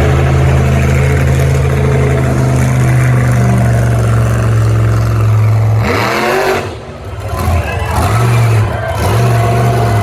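Monster truck engine running loud and steady. About six seconds in it revs sharply, rising in pitch, then dips and revs again in several short bursts.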